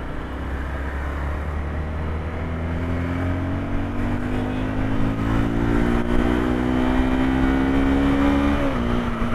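Motorcycle engine accelerating, its pitch climbing steadily as it gathers speed, then dropping suddenly near the end as the rider shifts up a gear.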